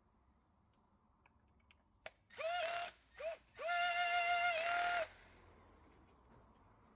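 Cordless drill-driver motor whining up in three runs, a short one, a brief blip, then a longer run of over a second, as it runs in sump bolts with its torque clutch set low.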